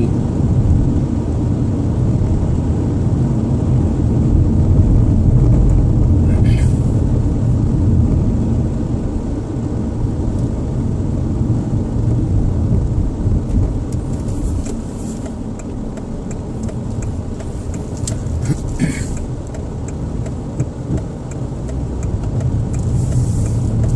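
Road and engine noise inside a moving car's cabin: a steady low rumble, with a few brief sharper sounds over it.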